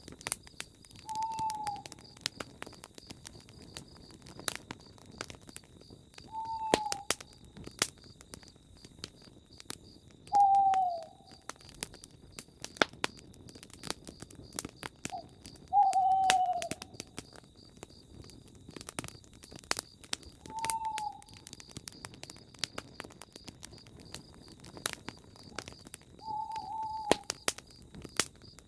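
Owl hooting: six short, falling hoots spaced about five seconds apart. Under them, a campfire crackles and pops, with a steady high chirring of insects.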